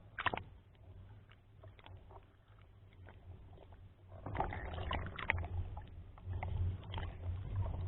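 Typhoon wind buffeting the microphone in gusts, with splashing water and scattered small clicks; the wind grows louder about four seconds in.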